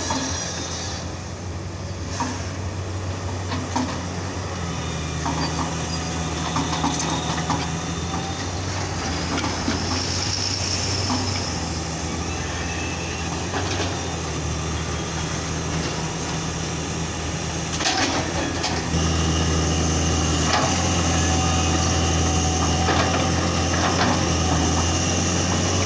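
Diesel engine of a JCB loader working, its note shifting up and down under load, with scattered short knocks. About 19 s in it becomes louder and holds steadier.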